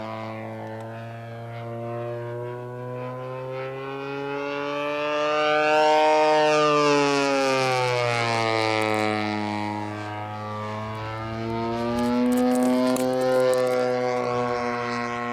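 Engine of a giant-scale RC P-40 model airplane in flight. Its pitch rises and falls as it passes, loudest about six seconds in and again near the end.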